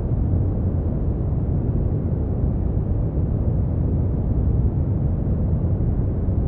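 Steady brown noise: an even, deep rumbling hiss with most of its weight in the low end and little above a few thousand hertz, unchanging throughout.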